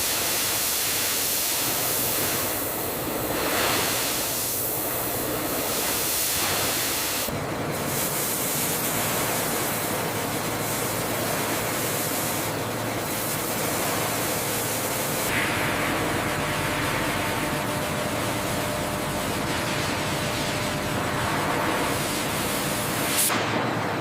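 Steady hissing noise of factory machinery with a faint hum beneath it, its character changing a few times.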